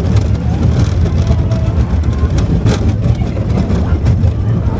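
Steel roller coaster running on its track: a loud, steady low rumble from the car, with a few sharp clacks, the loudest about two and a half seconds in.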